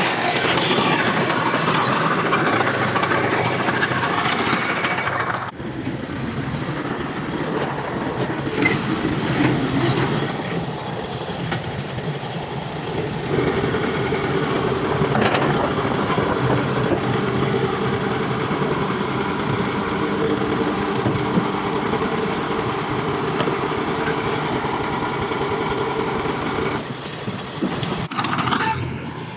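Bulldozer's diesel engine running under work, with metallic clanking from the machinery. The sound changes abruptly about five seconds in and again near the end.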